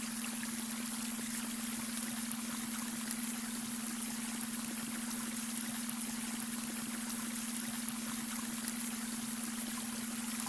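Babbling brook: water running and trickling in a steady, even rush. A steady low tone hums underneath from the blended beta-wave brainwave track.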